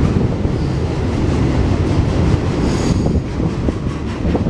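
Freight train rolling past close by: a loud, steady rumble and rattle of the cars and wheels on the rails, with a brief faint high squeal about three seconds in.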